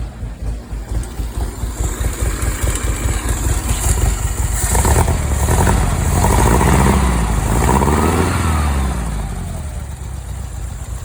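Meyers Manx dune buggy engine running just after a cold start, idling with a rapid pulsing beat, then revved up and down for several seconds starting about four seconds in before settling back to idle.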